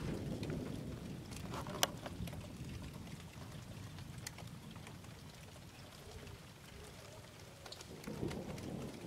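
Thunderstorm rain falling steadily, with many individual drops ticking and one sharp drip about two seconds in. A low thunder rumble dies away over the first few seconds and builds again near the end.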